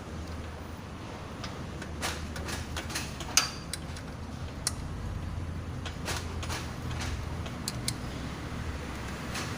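Scattered light clicks and knocks of tools and engine parts being handled during engine block assembly, with the strongest knock about three and a half seconds in, over a low steady hum.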